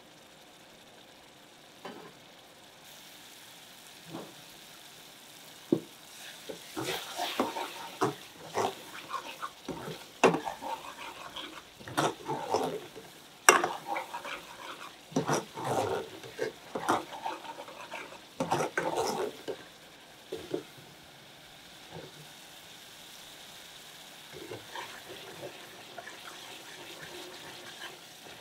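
Metal ladle stirring and scraping a thick onion-tomato-spice curry base as it sizzles in oil in a saucepan. Splashes of water are being fried off so the spices soak into the oil. The stirring clatters and scrapes hardest through the middle, with a steadier, quieter sizzle at the start and near the end.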